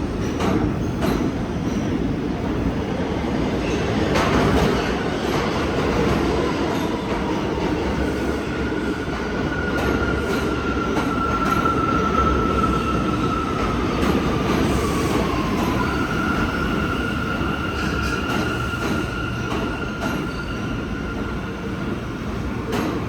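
Kawasaki R211A subway train running on the rails: a steady rumble with a few sharp clicks near the start. About a third of the way in a high whine sets in, slides lower, then comes back higher and holds to the end.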